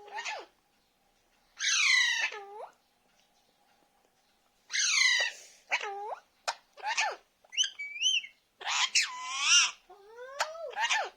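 Baby Alexandrine parakeet calling: a string of harsh, high-pitched screeches, most sweeping down in pitch, mixed with shorter wavering chirps and a call that rises near the end, with a quiet gap after the first loud call.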